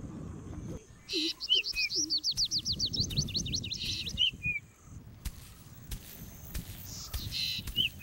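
A small bird singing: a rapid trill of high notes lasting about three seconds, with short down-slurred chirps before and after it, and a brief burst of song again near the end.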